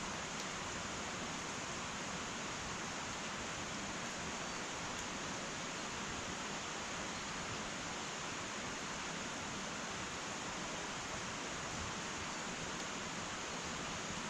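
Wood fire burning in an irori sunken hearth: a steady hiss with a few faint, scattered crackles.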